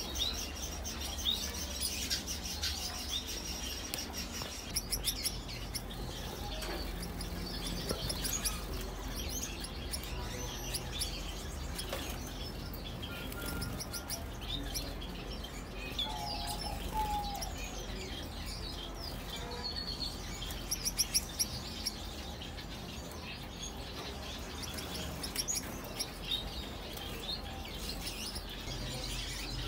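Small cage birds in an aviary chirping and calling, many short high chirps scattered throughout, over a low steady hum.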